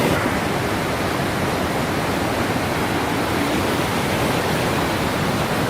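Waterfall with a heavy flow of water falling, a steady loud rushing noise.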